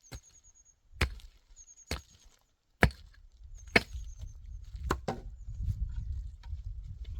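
Wood being chopped: sharp strikes about once a second.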